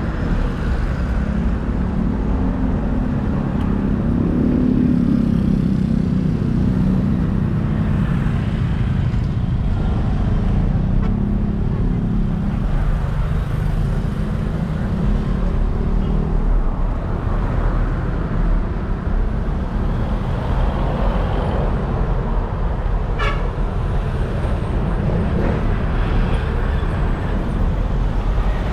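Steady road traffic noise with a heavy low rumble, heard while riding along a road. A brief sharp sound comes about three-quarters of the way through.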